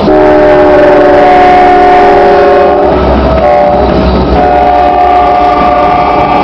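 Diesel freight locomotive's air horn sounding a loud multi-note chord, broken twice by short gaps, over the low rumble of the passing train.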